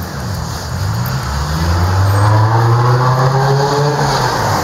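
A motor vehicle's engine accelerating and passing close by. Its low note rises in pitch over the first second or two, then holds, loudest in the middle, over street traffic noise.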